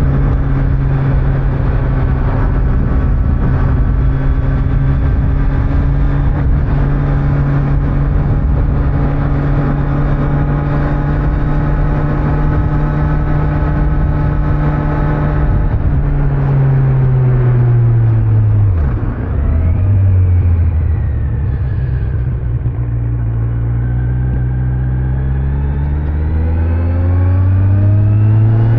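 Kawasaki Z900's inline-four engine with stock exhaust, first cruising at steady revs. About halfway through the revs fall, with a brief break in the note near the low point, hold low for a few seconds, then climb again as the bike accelerates, over road noise.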